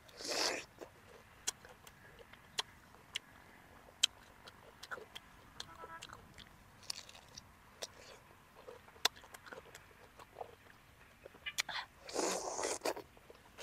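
Close-miked bites into fresh pineapple: a crisp, juicy crunch just after the start and another near the end, with wet chewing clicks and mouth smacks in between.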